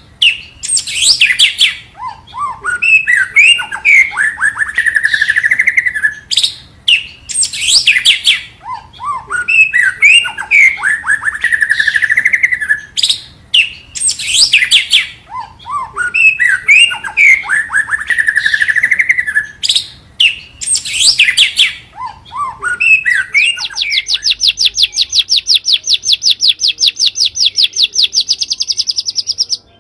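White-rumped shama (murai batu) song played as a lure recording: the same varied phrase of whistled, rising and falling notes comes three times, about every six to seven seconds. This is followed by a long, fast, even high trill that lasts until the end.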